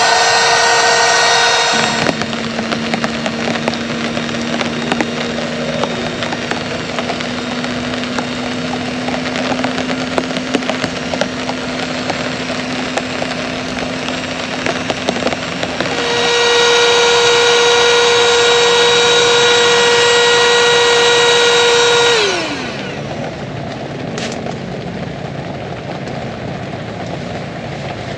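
A small motor runs with a steady whine. Its pitch drops about two seconds in, rises again around sixteen seconds in, and it winds down and stops about twenty-two seconds in, leaving a steady hiss of rain.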